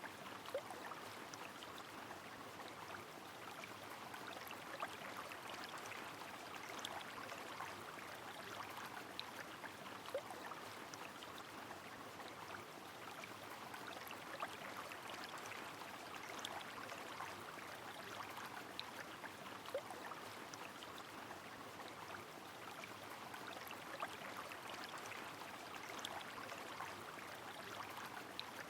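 Rain falling over a flowing river: an even watery hiss with many scattered sharp drips ticking through it.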